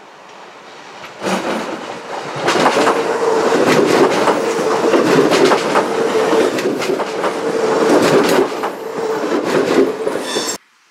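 Skånetrafiken Pågatåg electric multiple unit (Alstom Coradia Nordic X61) passing close by, its wheels clicking over the rail joints, with a steady hum under it. The sound builds about a second in, stays loud through the pass, and cuts off suddenly near the end.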